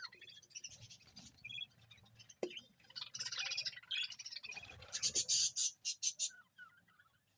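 Budgerigars chirping and chattering in short high calls, building to a fast rattling chatter about five seconds in that breaks off shortly after.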